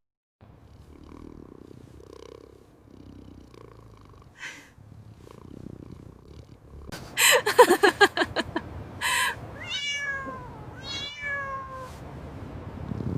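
Kitten mewing. A little past the middle comes a loud run of rapid, quavering cries, then a short burst, and near the end two separate meows that fall in pitch. Before that, only faint low sound.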